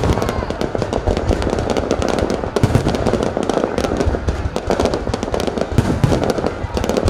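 Fireworks going off continuously: a dense crackle of many small pops over a rumble of deeper bangs.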